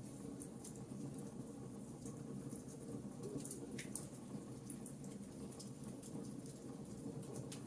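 Wood fire crackling in a fireplace: irregular small sharp pops and snaps over a low steady rumble of the burning fire.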